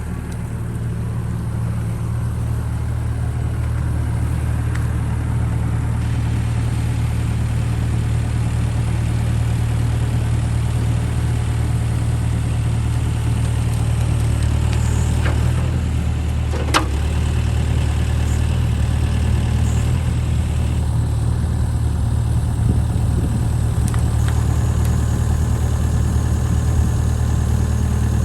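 John Deere 60G compact excavator's diesel engine running steadily, with a single sharp knock about two thirds of the way through.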